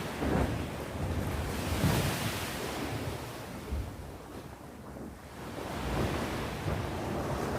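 Sea waves washing onto the shore: a swell about two seconds in, a lull near the middle, then the surf building again.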